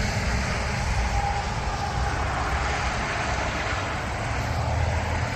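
Road traffic: a vehicle passing on a well-travelled country road, a steady rush of tyre and engine noise over a low rumble.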